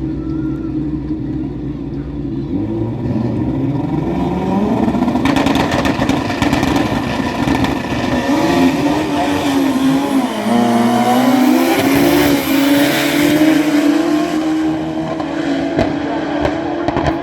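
Drag racing vehicle's engine at full power, loud and rising from about four seconds in, its pitch climbing and wavering as it accelerates down the strip.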